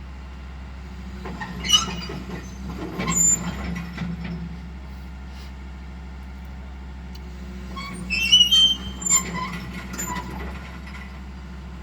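Excavator's diesel engine running steadily, with two spells of high metallic squeals and clanks as the machine moves on the trailer.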